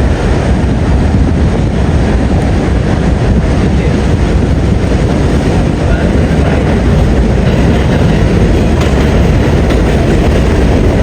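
R142A subway train running between stations: a steady loud rumble of wheels on rail with a deep low roar.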